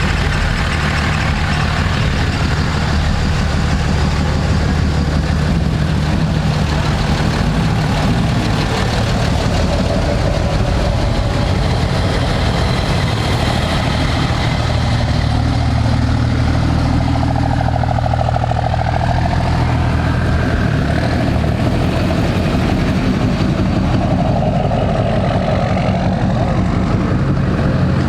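Diesel truck engine idling steadily, a deep even rumble.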